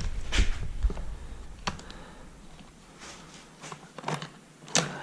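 Scattered sharp clicks and light knocks of chainsaw parts being handled and fitted as the bar and chain go onto the saw, with a dull low rumble in the first second.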